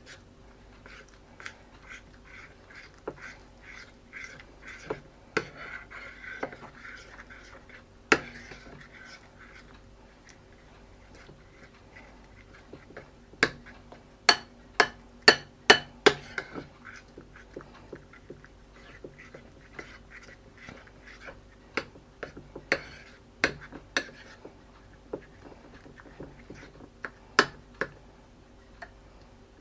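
A utensil stirring and scraping thick flour-and-water batter paste in a bowl, with sharp taps and clinks against the bowl and a quick run of taps about halfway through. A faint steady hum sits underneath.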